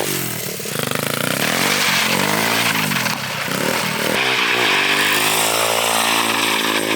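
Small 110cc pit bike engine on a drift trike, revved up and down several times, then rising about four seconds in and held at a higher, steady pitch under load.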